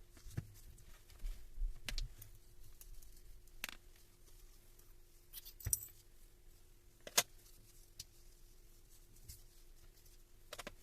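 Scattered metal clinks and knocks of tools and parts being handled during a Hilti TE1000 breaker rebuild, about six separate strikes with the sharpest about seven seconds in, over a faint steady hum.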